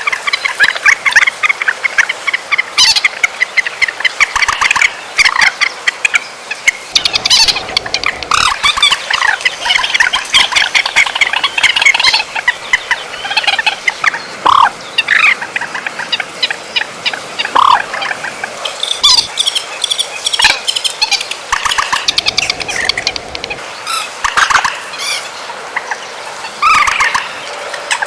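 Recorded calls of the bird known in Vietnam as trích ré, a flock-gathering call used as a lure: a dense, continuous run of rapid chattering notes with sharp, loud calls cutting in throughout.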